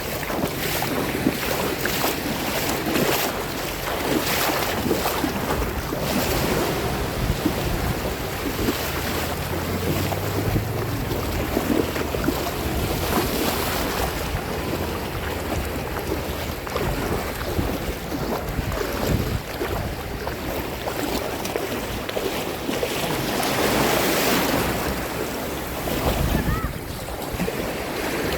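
Sea water washing and lapping in small waves, swelling every few seconds, with wind buffeting the microphone.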